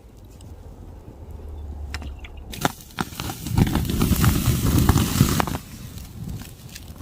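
Campfire crackling and popping with sharp snaps. About three and a half seconds in, a loud rushing burst lasts about two seconds, then stops abruptly.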